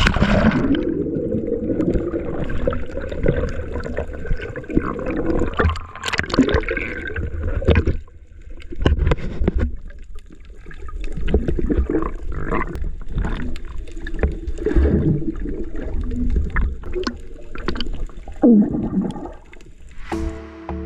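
Water gurgling and sloshing in irregular splashes, with muffled low sounds underneath.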